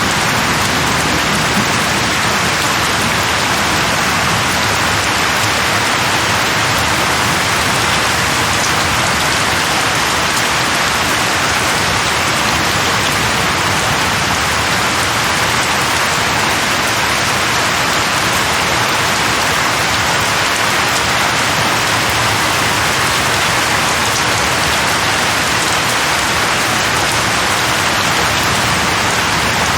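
Steady, even rain falling on leaves, a constant hiss of many drops with no thunder or other breaks.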